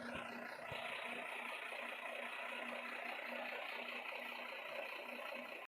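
Truck engine idling steadily, with a hissing noise that gets a little fuller under a second in.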